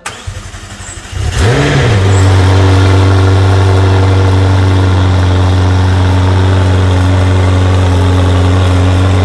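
McLaren Senna's twin-turbo V8 starting: about a second of cranking, then it catches with a short rev flare that rises and drops back, and settles into a steady idle through its European-spec triple-pipe exhaust.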